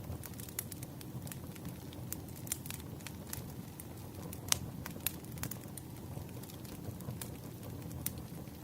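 Wood fire burning, with a steady low rumble and frequent sharp, irregular pops and crackles of the burning logs.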